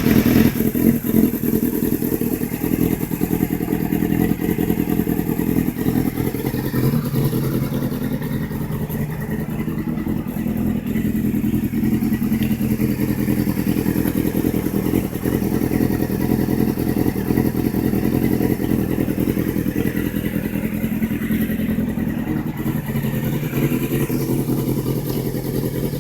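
Carbureted Honda CBR sportbike's inline-four running through a D&D slip-on exhaust, idling steadily with slight rises and falls in engine speed.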